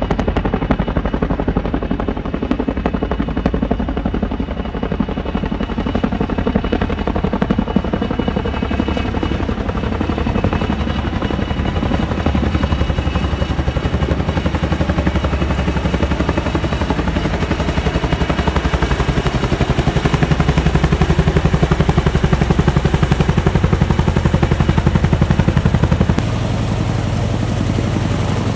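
Army helicopter's rotor chopping steadily as it runs close by, growing louder about two-thirds of the way through, then dropping suddenly near the end.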